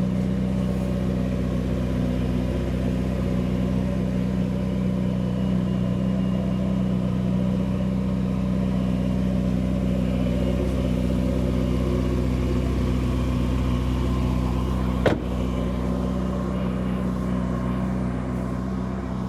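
Ferrari 488 GTB's 3.9-litre twin-turbo V8 idling steadily at an even pitch, with one sharp click about fifteen seconds in.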